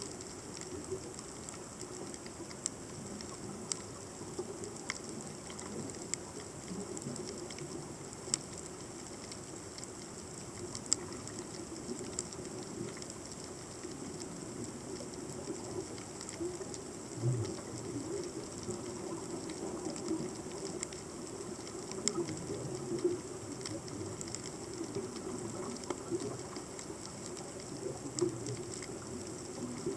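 Underwater ambience recorded by a submerged camera: a dense, steady crackle of many short clicks over a constant low rushing noise.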